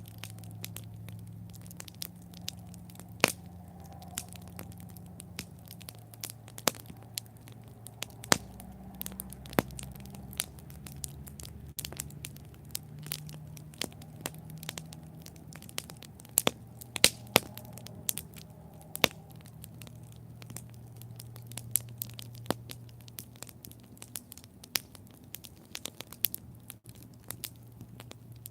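Wood campfire crackling: sharp pops and snaps at irregular intervals over a low, steady rumble of the flames.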